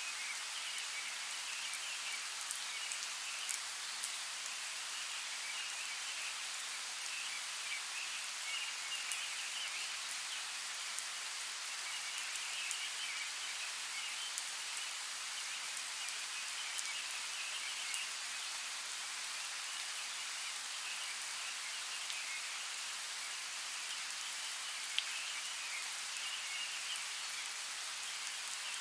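Steady rain falling in a forest: an even hiss with scattered sharp drop ticks.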